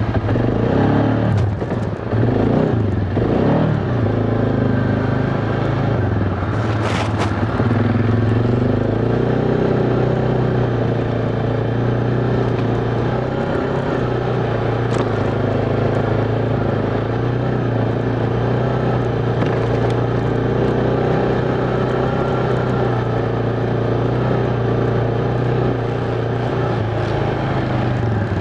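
ATV engine running under load on a trail, its pitch rising and falling over the first few seconds, then holding steady.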